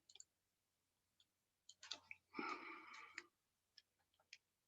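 Faint, scattered computer mouse clicks, with a brief soft noise between them about two and a half seconds in.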